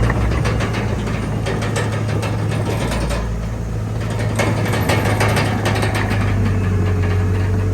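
Komatsu D31PX crawler bulldozer's diesel engine running steadily with a low drone and metallic clanking. The engine eases off slightly about three seconds in, then picks up again.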